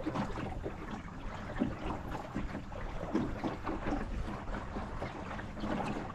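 Water lapping and splashing against the hull of an Optimist sailing dinghy under way, with a low rumble of wind on the microphone.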